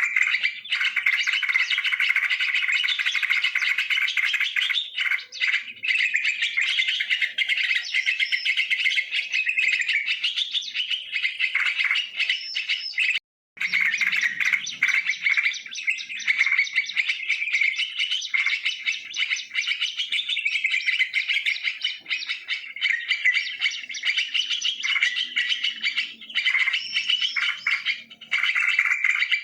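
Yellow-vented bulbuls (trucukan) chattering and calling continuously in a dense, busy stream of bubbly notes, breaking off completely for a moment about halfway through.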